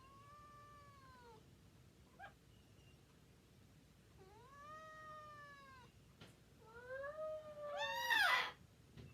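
A Bengal cat yowling in protest at being held: three long, drawn-out meows that each rise and then fall in pitch, the last one the loudest, near the end.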